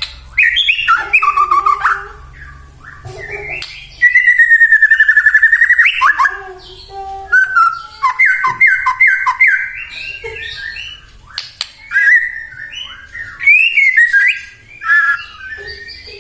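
White-rumped shama (murai batu) singing loudly in varied whistled phrases, with short pauses between them: a fast steady trill about four seconds in, then a quick run of repeated notes.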